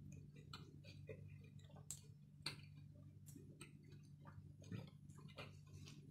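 Faint, irregular crunching clicks of a mouthful of crisp banana chips and stewed soya chunks being chewed, over a low steady hum.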